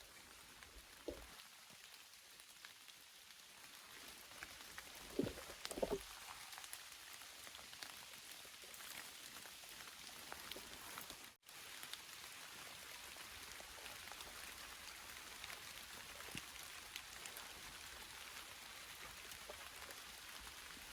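Steady rain falling, a dense patter of many small drops, with a few soft thumps about one, five and six seconds in. The sound breaks off for an instant about eleven seconds in.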